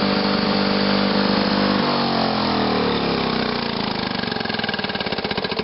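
Lawn Boy 7260G mower's D409 two-stroke engine running steadily just after a cold start, then shut off about two seconds in and winding down, its pitch falling until it slows to separate, spaced firing pulses near the end.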